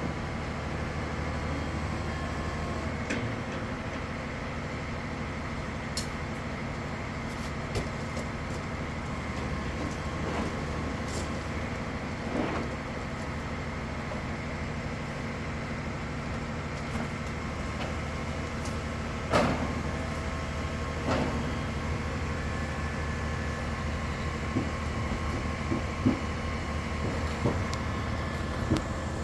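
Crane truck's engine running steadily, with scattered knocks and clanks; the loudest knock comes about nineteen seconds in.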